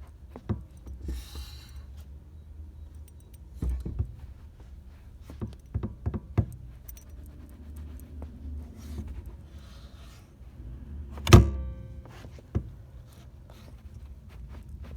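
A car's pedal pumped by a moccasined foot with the engine off: irregular soft knocks and thunks, with one loud thunk about eleven seconds in and brief light jingling twice.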